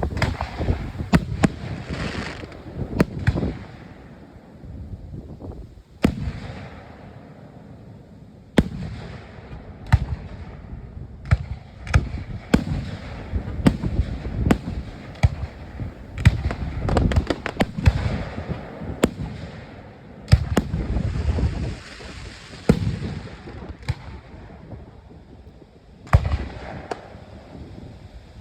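Aerial fireworks display: a run of sharp bangs from shell bursts, some coming in quick clusters, each trailing off into a low rolling rumble.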